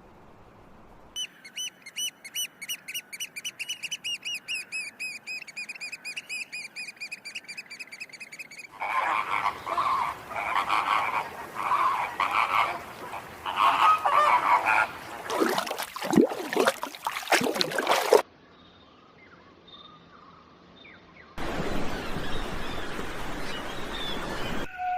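A string of different bird sounds cut together. First comes a fast run of high whistled notes, about five a second. Then come loud, harsh calls repeated about once a second, goose-like, followed by several sharp knocks. After a short quiet gap, a steady rushing noise begins near the end.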